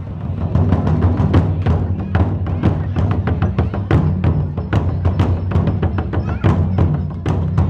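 Japanese taiko drums played in a fast, steady rhythm: deep booming drum tones under a run of sharp stick strikes, several a second.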